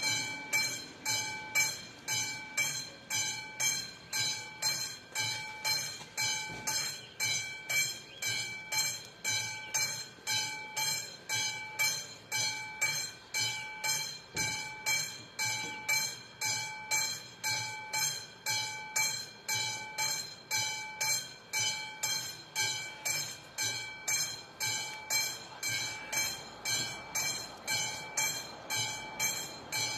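Classic mechanical warning bell of a Czech level crossing (AŽD 71 signal) starting suddenly and ringing steadily at about two strikes a second, each strike ringing on with the same metallic tones: the crossing has activated for an approaching train.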